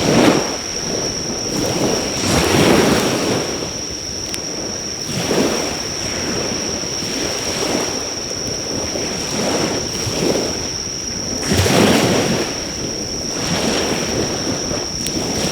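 Sea waves washing onto the shore in surges every few seconds, with insects chirring in a steady high tone. A faint crackle or two from a driftwood fire.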